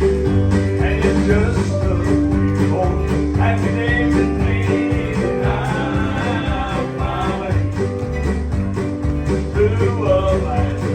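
Live country-gospel band playing, guitar over a steady bass line, with no words sung.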